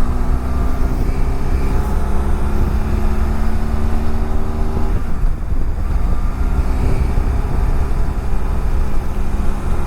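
A BMW F700GS's parallel-twin engine riding off, heard through heavy wind rumble on the rider's helmet microphone. The engine note breaks off briefly about halfway through, then comes back.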